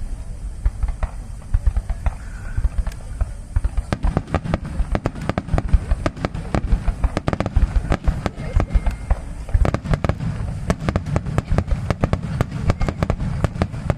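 Aerial fireworks bursting: scattered sharp cracks at first, then about four seconds in a dense barrage of many rapid bangs and crackles over a deep rolling rumble.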